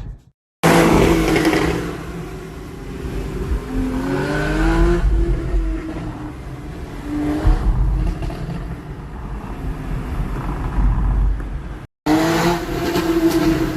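Porsche 991.1 Carrera S's naturally aspirated 3.8-litre flat-six on its stock exhaust, accelerating hard with its pitch rising through the revs and dropping back. The sound starts suddenly after a short silence and breaks off briefly near the end before starting again.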